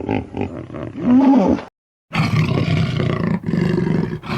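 Recorded wild animal calls: a pitched call that bends up and down, a brief cut to silence a little before the middle, then a dense, continuous low roar-like call.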